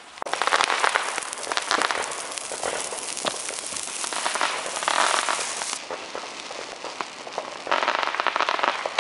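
Iron Grid firework crackling, a dense stream of rapid small pops over a hiss. It swells and eases several times, with louder stretches near the start, around the middle and near the end.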